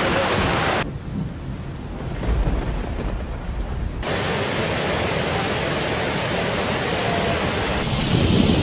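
Storm noise of heavy rain and wind, with a low rumble a couple of seconds in. The sound changes abruptly about one, four and eight seconds in, as one storm recording cuts to the next.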